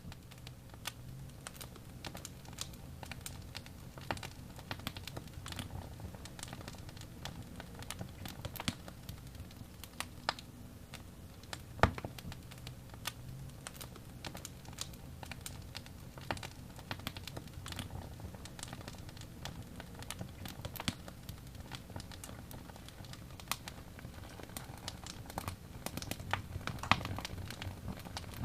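Wood fire burning in a fireplace: irregular sharp pops and crackles, a loud snap about twelve seconds in and another near the end, over a steady low rumble.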